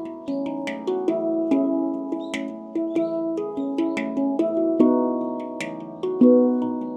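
Handpan being played: struck steel notes ringing and overlapping in a slow melody, several strikes a second, each note fading as the next is hit.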